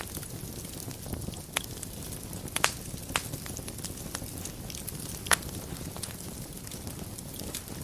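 Wood fire burning in a fireplace: a steady low rustle of flames with frequent small crackles and a few sharper pops, the loudest about two and a half seconds in and again just past five seconds.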